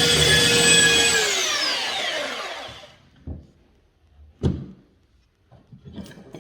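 Electric sander running, then switched off about a second in, its motor whine falling in pitch and dying away over about two seconds. A few light knocks follow.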